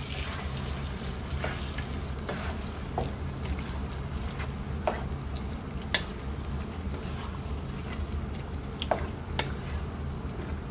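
Marinated chicken frying in oil in a non-stick pan while a wooden spatula stirs it, with a steady sizzle and sharp scrapes and knocks of the spatula against the pan now and then. A steady low hum runs underneath.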